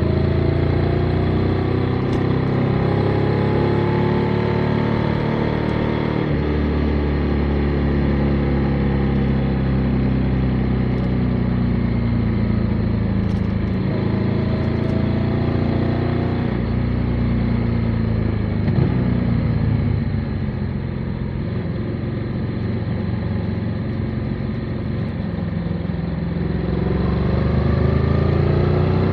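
Motorcycle engine heard on the move, its note rising and falling as the rider accelerates, shifts and eases off. It climbs over the first few seconds, drops about six seconds in, and falls away and runs quieter for a while past the middle. It climbs again near the end.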